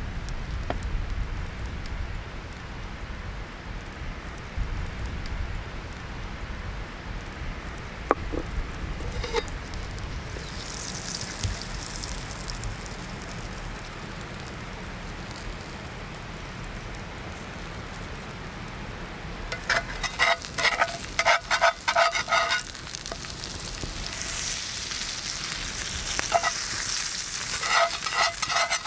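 Pineapple slices and cheese sizzling and frying on a hot iron griddle over a campfire, with a steady hiss that grows brighter in places. A run of rapid scraping strokes with a ringing edge comes about two-thirds through and again near the end, as of a metal spatula working on the griddle.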